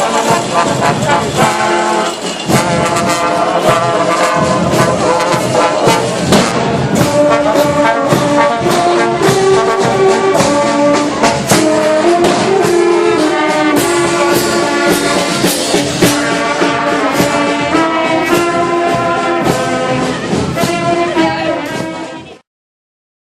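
Brass band playing a tune, with trombones and trumpets over sharp regular beats; it fades and cuts off near the end.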